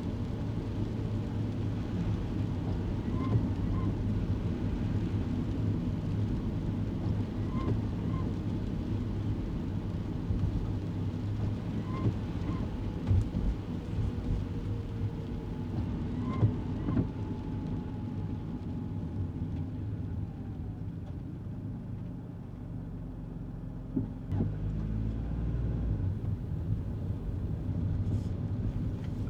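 Kei car running down the road, heard from inside the cabin: a steady low engine and tyre rumble, with a pair of short chirps about every four seconds. The rumble eases a little past the middle, then deepens again near the end.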